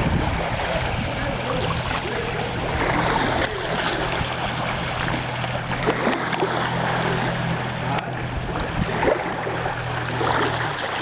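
An engine running steadily, a low even hum that stops shortly before the end, over a constant rush of water or wind noise.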